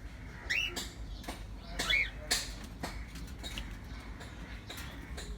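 Two short chirps from a small pet bird, each rising and falling in pitch, about a second and a half apart, amid scattered light clicks and rustling.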